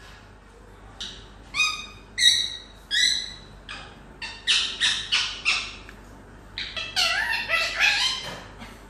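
Rose-ringed (green-necked) parakeet calling: a string of short, high, sharp squawks beginning about a second in, coming faster and closer together near the end.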